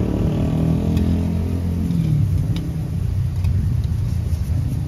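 A car engine running close by, its low hum fading about two seconds in, leaving a steady low rumble. A few faint clicks of a metal spoon on the pans come through.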